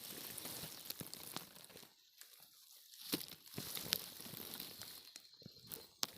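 Dry rustling and crackling of disturbed leaf litter, in two spells with a short pause about two seconds in.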